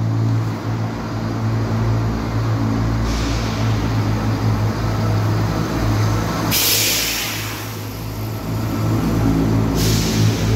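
Class 170 Turbostar diesel multiple units' underfloor diesel engines running with a steady low drone as the train pulls out. A loud hiss cuts in about six and a half seconds in and stops sharply about three seconds later.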